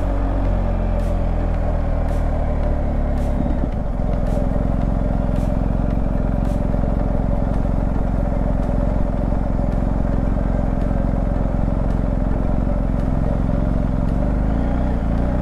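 BMW R 1250 GS Adventure's boxer-twin engine running steadily under way, its note shifting about four seconds in.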